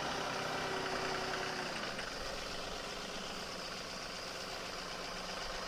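John Deere 2038R compact tractor's three-cylinder diesel engine running steadily, with a higher tone in the hum that fades out about two seconds in.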